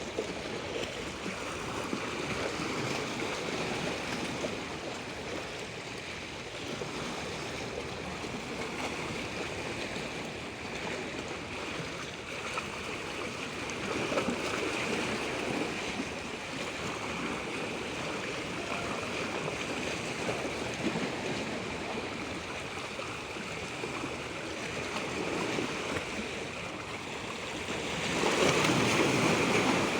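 Flowing water: a continuous rushing that swells and eases every few seconds, with a louder surge near the end.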